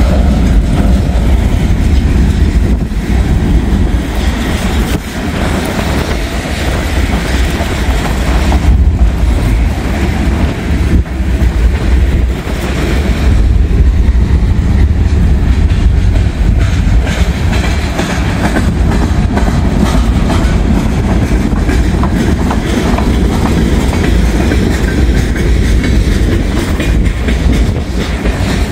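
Freight train cars rolling past at a grade crossing: a steady, loud rumble of steel wheels on the rails.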